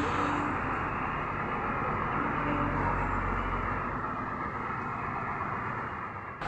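A vehicle on the move: steady engine and road noise.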